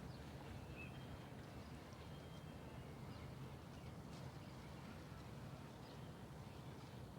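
Faint, steady low rumble of outdoor ambience, with a few faint, short high chirps and ticks over it.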